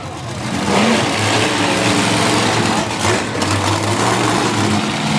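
Monster truck engines running loud, their pitch holding fairly steady with small rises and dips.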